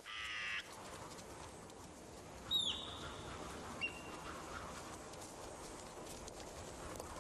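Bird calls over a steady outdoor hiss: a short buzzy call at the start, a sharp whistle that drops in pitch and then holds briefly about two and a half seconds in, and a brief high note a second later.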